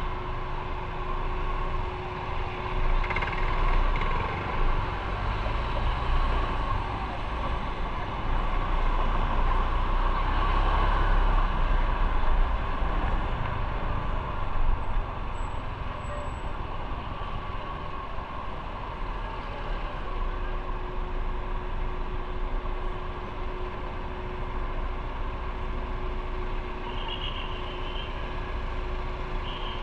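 Motorcycle riding in city traffic: engine running under road and wind noise, with other vehicles around, louder for a few seconds in the middle.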